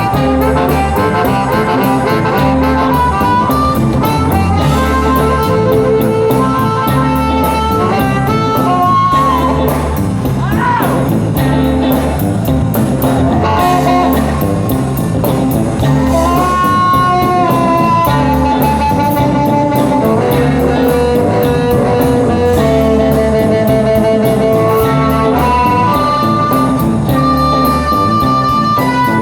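Blues band playing live: bass and drums keep a steady beat under guitar, with long held lead notes on top.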